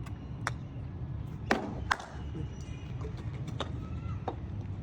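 Sharp knocks of cricket balls striking bats during net practice, several separate hits with the two loudest about a second and a half and two seconds in, over a steady low background rumble.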